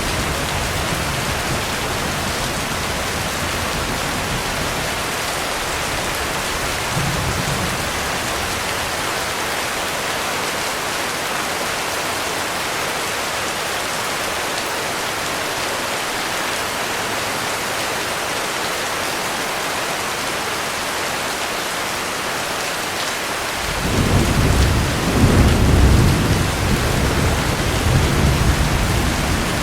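Heavy rain falling steadily, with thunder rumbling low. A distant rumble dies away in the first few seconds, and a louder roll of thunder builds about three quarters of the way through and carries on to the end.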